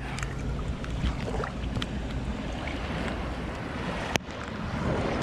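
Seawater sloshing and splashing around a waterproof camera held at the surface while swimming, with wind buffeting the microphone and many small splash ticks. A sharp knock comes about four seconds in.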